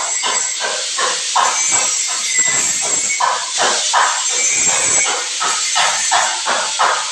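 Power sprayer jetting water, a steady loud hiss with a rhythmic pulsing about three times a second.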